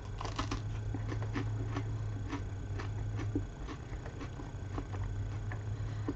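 Crunching and chewing of a crisp chocolate-cream-filled wafer stick: a run of small crisp crunches, thickest at the first bite and then thinning out, with a steady low hum underneath.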